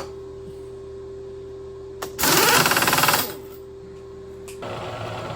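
Steady machine hum, broken about two seconds in by a loud burst of rapid hammering lasting about a second: a power drawbar on the milling machine spindle loosening or tightening the tool during an end mill to drill chuck swap.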